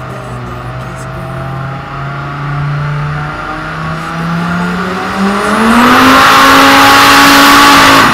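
First-generation Dodge Viper's V10 engine making a full-throttle pull on a chassis dyno. The revs climb steadily, hold loud near the top for a couple of seconds, then cut off at the end as the throttle is released.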